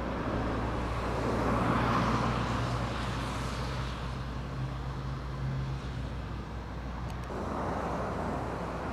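Vehicle traffic with a steady low hum underneath; the sound swells about two seconds in and again near the end, as vehicles pass.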